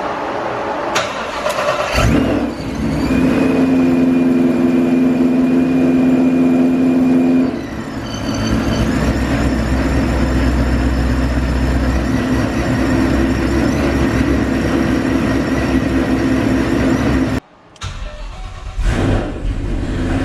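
Built supercharged 5.8-litre V8 of a Shelby GT500 being cranked and firing about two seconds in on its first start after a rebuild, catching right away. It runs at a steady fast idle with a high whine over it, settles to a slightly lower, changed tone after a few seconds, and briefly cuts out near the end.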